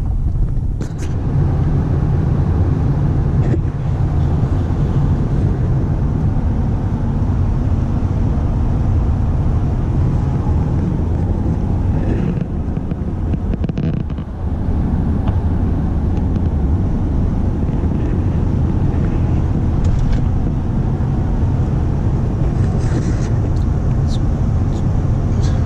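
Steady engine and road drone inside the cabin of a diesel vehicle while it is driving.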